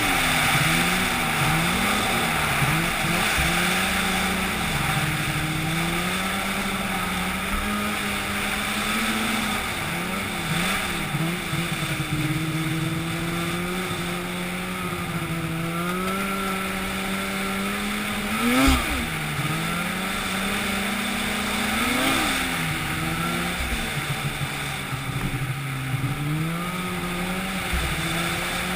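An engine running steadily, its pitch dipping and recovering again and again as if briefly loaded, with a sharp knock about two thirds of the way through.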